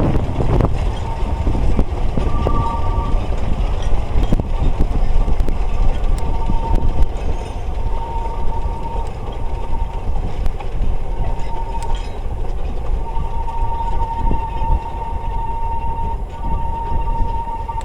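Narrow-gauge quarry steam locomotives working, with a dense low rumble. A high steady tone comes and goes over it and holds unbroken near the end.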